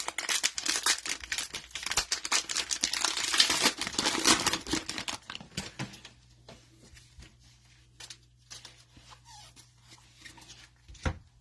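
Cellophane wrapper of a trading-card cello pack being torn open and crinkled, a dense crackling for about the first six seconds. After that, only sparse light clicks and taps.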